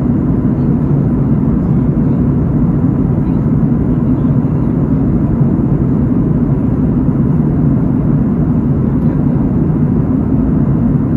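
Steady drone of aircraft cabin noise in flight, engine and airflow blending into a constant low rumble that does not change.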